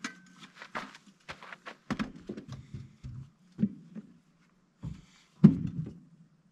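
Irregular knocks, clicks and thuds of gear being handled and stowed inside a truck camper as it is packed up, the heaviest thud about five and a half seconds in, over a faint low steady hum.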